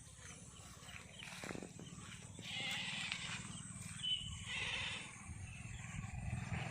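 Goats bleating: a few harsh calls about two and a half, four and a half and six seconds in.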